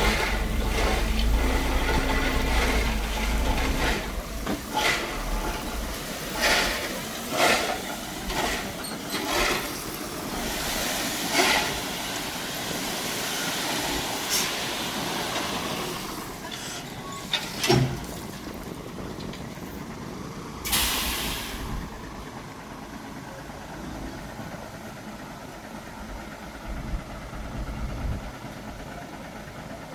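Heavy earthmoving machinery working gravel: a deep engine rumble at first, then repeated metallic clanks and knocks through the first half. About 21 seconds in there is a short burst of hiss, and an engine keeps running more quietly after it.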